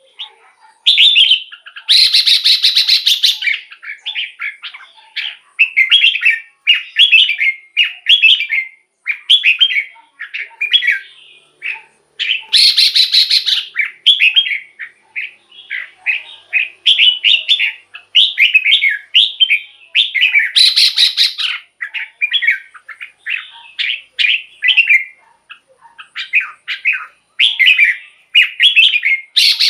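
Red-whiskered bulbul singing a continuous run of short, quick, warbling phrases. A few loud, harsh, raspy bursts break in, about two seconds in, around twelve seconds, around twenty-one seconds and again at the end.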